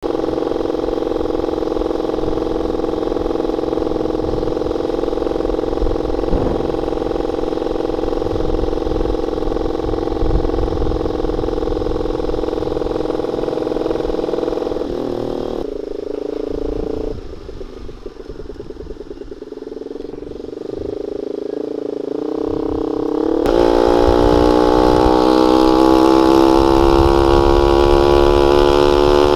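Honda Sonic 150R's single-cylinder engine through a CLD X Monster aftermarket exhaust with a half baffle, running at a steady pitch, going quieter for a few seconds past the middle, then rising steadily in pitch and getting louder over the last several seconds.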